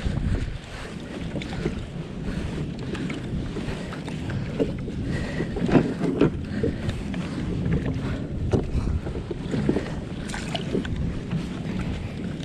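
Wind buffeting the microphone on a kayak at sea, with water around the hull and a few short knocks or splashes, mostly in the middle and near the end.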